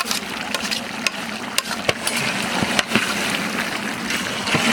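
Food sizzling in a large cooking pot as it is stirred, with irregular sharp clicks and knocks of the ladle against the pot.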